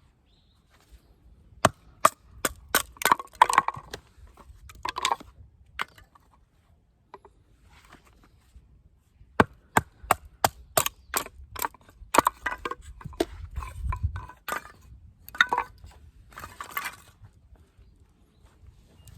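Batoning firewood: a baton knocks sharply on the spine of a Helle Didi Galgal knife, about three to four blows a second in two runs, with the wood cracking and splitting between them.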